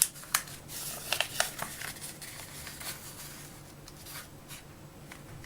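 Sheet of paper being folded and creased by hand: a quick run of crisp rustles and snaps in the first two seconds, then fainter, scattered rustling.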